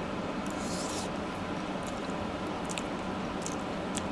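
A man chewing a spoonful of okra stew: a few faint wet mouth clicks and smacks, about once a second, over a steady background hum.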